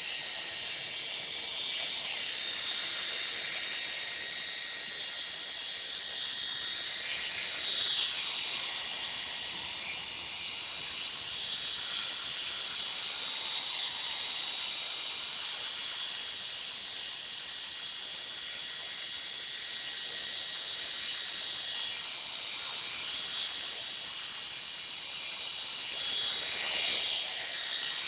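Electric Belt CP V2 radio-controlled helicopter in flight: a steady high-pitched whine of motor and rotor that shifts a little in pitch and swells near the end.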